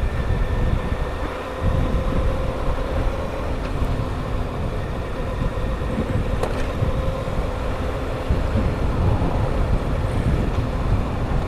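Honda CBR1000RR's stock inline-four engine running at a steady cruise, with no big revs or shifts, heard from a mic inside the rider's helmet. Heavy wind rumble buffets under the engine note.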